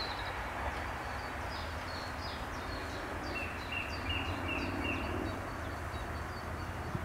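Small birds singing: repeated short, high, falling chirps, with a lower run of notes in the middle, over a steady low rumble of outdoor background noise.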